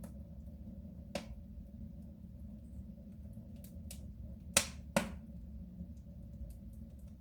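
Wood fire crackling in a soapstone stove: scattered faint ticks, a sharp crack about a second in, and two loud pops close together about four and a half seconds in, over a steady low hum.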